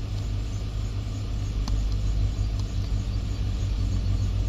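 Chevy Suburban's V8 engine idling steadily, heard as a low hum from inside the cab, with a faint click about one and a half seconds in.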